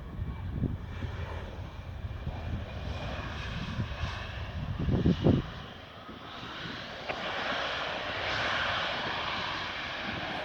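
Wind buffeting the phone's microphone in low gusts. From about six seconds in, the broad noise of a landing passenger jet's engines rises and holds.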